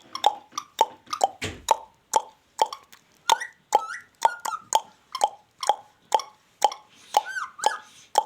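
Ringneck parrot making a rapid series of short popping clicks, about two to three a second, with short whistled notes slipping in around the middle and near the end.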